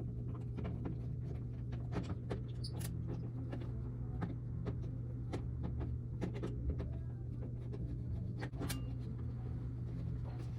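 Scattered small clicks and taps of hands working on an old wall thermostat to get at its wiring, over a steady low hum.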